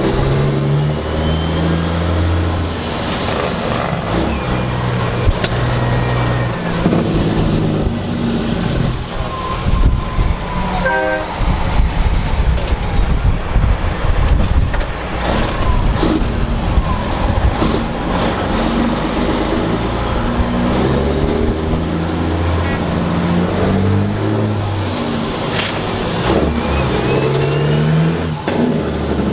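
Semi truck diesel engine pulling through the gears, its low drone climbing in pitch and dropping back with each shift, over and over. A brief horn note sounds about eleven seconds in.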